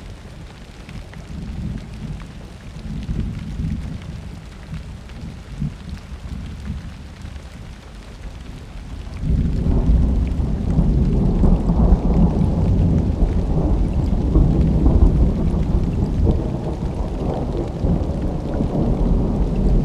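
Thunderstorm with steady rain: a low rumble of thunder in the first half, then a loud roll of thunder that breaks suddenly about halfway through and rumbles on to the end.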